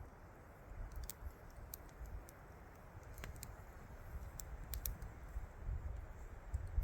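Gusty wind buffeting the microphone as an uneven low rumble that grows stronger near the end, with scattered small sharp crackles.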